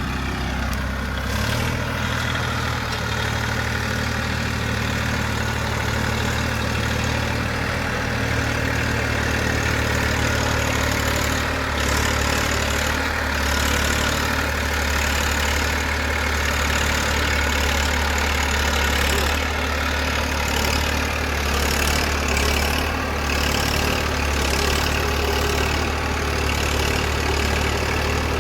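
Tafe 45 DI tractor's three-cylinder 2500 cc diesel engine running steadily while hauling a sugarcane trailer of about 8 tonnes. Its note steps up slightly about a second and a half in, then holds.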